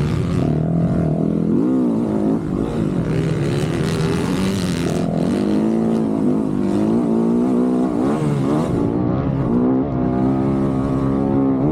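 Dirt bike engine revving, its pitch climbing and dropping again and again with the throttle.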